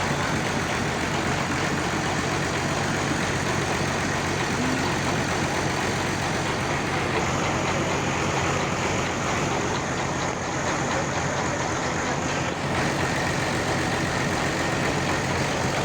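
Homemade sawmill's engine running steadily, with a thin high whine joining in from about seven seconds in and cutting off near the thirteenth second.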